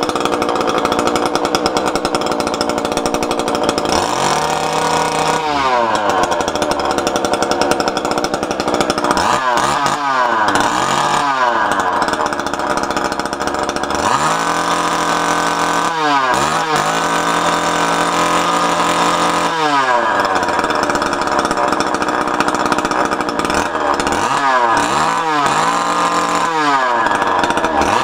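Small line-trimmer engine with a drilled-out muffler, running loud and being revved: the pitch drops and climbs back again and again, about four seconds in, around ten, sixteen, twenty and twenty-five seconds, holding high in between.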